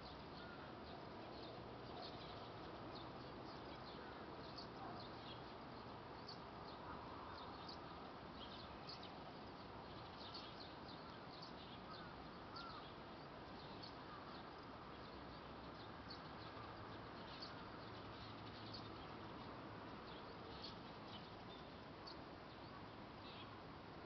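Faint small-bird chirping: many short, high chirps over a steady hiss of outdoor ambience.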